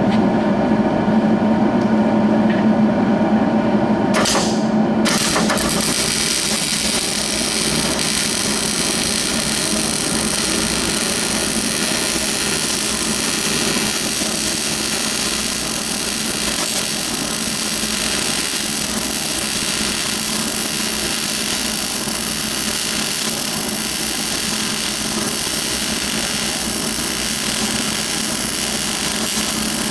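A steady machine hum for the first few seconds, then a MIG welder laying a continuous bead on a steel tractor rim: after a brief burst about four seconds in, a steady crackling arc sizzle runs on from about five seconds.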